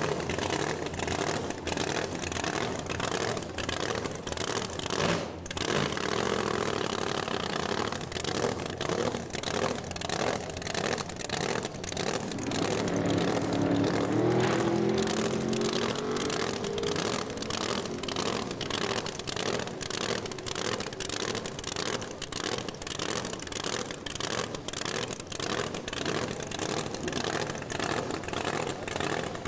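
Drag race car engine running steadily, with a short break about five seconds in and an engine revving up about halfway through.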